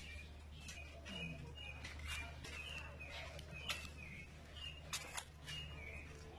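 Small birds chirping repeatedly, with a few sharp clicks about halfway through and a steady low hum underneath.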